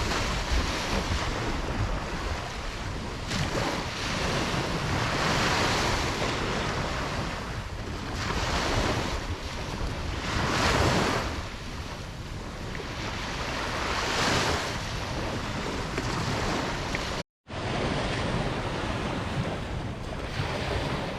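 Ocean waves breaking on a beach, a steady wash that swells every few seconds as each wave comes in. The sound cuts out for a split second about three-quarters of the way through.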